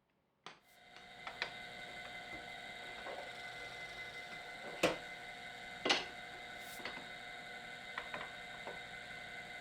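An electric woodworking power tool starts about half a second in, its motor spinning up over about a second to a steady whine, with a few sharp knocks from the work, two of them louder, about five and six seconds in.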